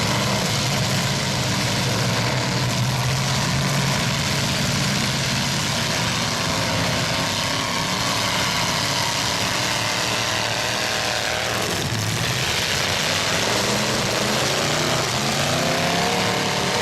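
Several demolition derby trucks' engines running and revving together. Their pitch rises and falls, most plainly near the end.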